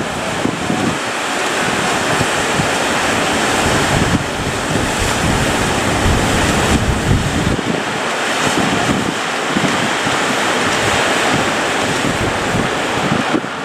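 Heavy sea surf breaking and washing without a break, with wind buffeting the microphone in low, uneven rumbles.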